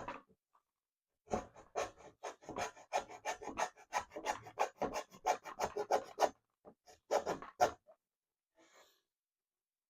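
Hacksaw cutting through a melamine board by hand: a run of quick, rasping back-and-forth strokes that stops about three-quarters of the way in.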